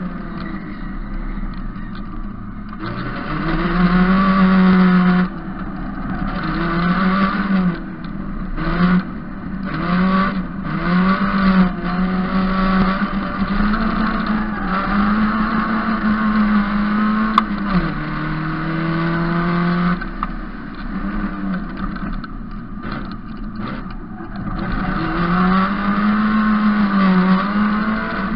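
Opel GSI-based race car's four-cylinder engine driven hard, its pitch climbing and dropping again and again as the throttle is opened and lifted through the corners. It is loudest at full throttle about four seconds in and again near the end.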